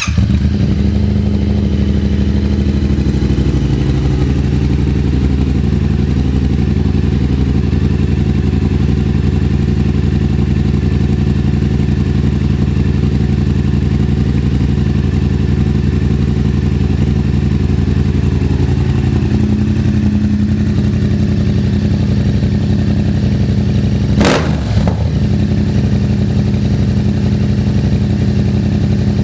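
2016 Yamaha FZ-07's 689 cc parallel-twin engine running steadily through an aftermarket Akrapovic-style slip-on exhaust, just after being started, heard through a phone's microphone. A couple of brief sharp noises come near the end.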